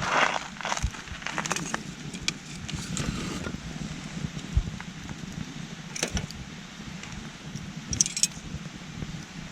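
Campfire of scrap wood burning with scattered crackles and pops, the loudest at the very start and around six and eight seconds in, over the steady babble of a small stream.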